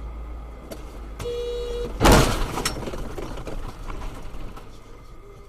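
Dashcam recording of a road collision: a car horn sounds for under a second, then a loud crash of impact about two seconds in, which dies away over about half a second, over a steady low road hum.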